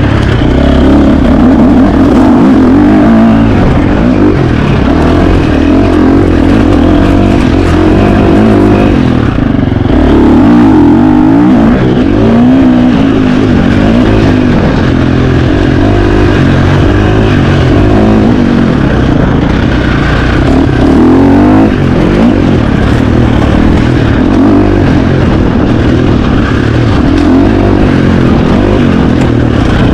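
KTM 350 XC-F dirt bike's single-cylinder four-stroke engine being ridden hard, its pitch rising and falling over and over as the throttle is opened and closed and the gears change.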